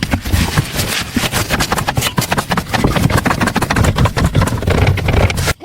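An engine running with a rapid, steady clatter, cut off abruptly near the end.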